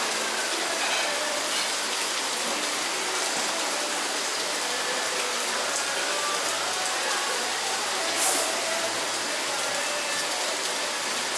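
Heavy tropical rain pouring steadily, an even hiss with no let-up, and a brief click about eight seconds in.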